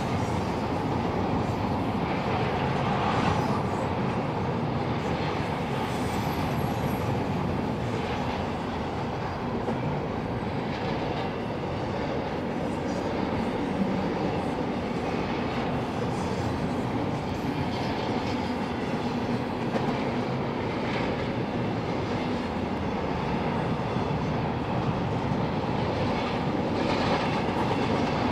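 Double-stack intermodal container cars rolling past on the track: a steady rumble of steel wheels on rail, with faint clicks every few seconds.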